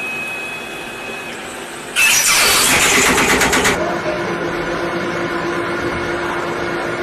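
CNC machine running with a steady whine, then about two seconds in a sudden loud, harsh rattling of rapid strikes for about a second and a half as the cutting tool crashes into the work. After that the machine settles back to a steady hum.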